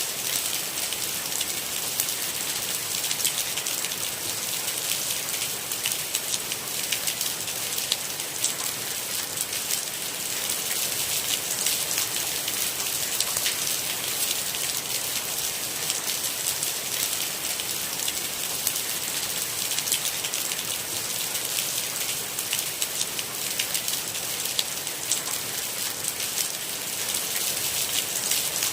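Steady rain with a dense, even scatter of sharp individual drop hits over a constant hiss, no thunder.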